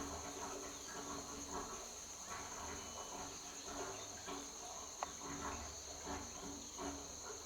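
Steady high-pitched insect chirring over a faint low rumble rising from deep in the sinkhole, which the angler likens to the sound of flowing water. A single small click about five seconds in.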